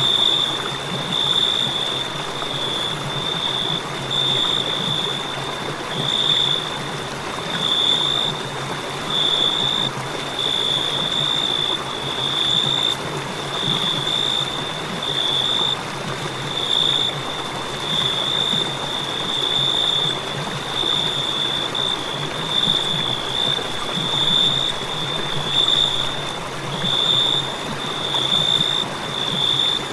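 Crickets chirping: a high-pitched trill in repeated pulses, about one a second, over a steady rushing hiss.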